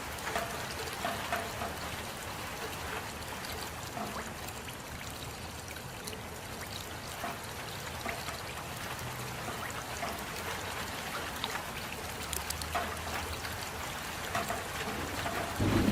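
Steady rain falling, with scattered louder individual drops ticking at irregular times.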